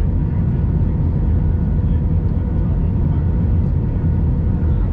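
Steady low rumble inside the cabin of an Airbus A319, from its CFM56 engines and the airflow, with faint steady whining tones over it.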